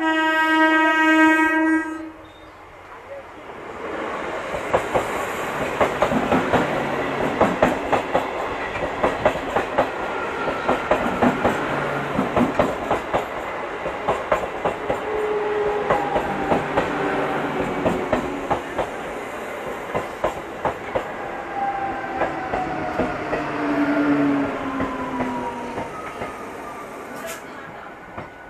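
Electric multiple unit (EMU) local train sounding one horn blast of about two seconds, then passing close by, its wheels clattering over the rail joints in a fast run of clicks, with thin whining tones sliding up and down over the clatter. The noise fades near the end.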